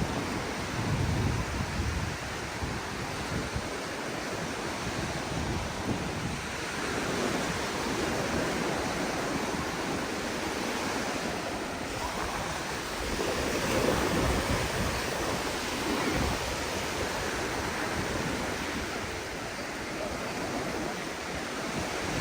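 Sea surf washing onto a sandy beach in a steady rush that swells and eases as waves come in, louder around the middle, with some wind buffeting the microphone.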